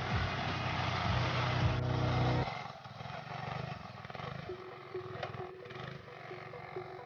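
Motorcycle engine running with a rapid low firing pulse, cut off abruptly about two and a half seconds in, leaving a quieter engine-like rumble.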